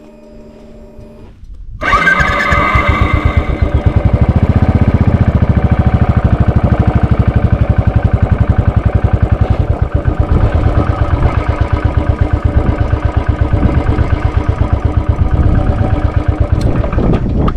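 Royal Enfield Bullet 500's single-cylinder engine starting about two seconds in, with a brief burst of revs. It then settles into a loud, even idle of rapid, regular thumps.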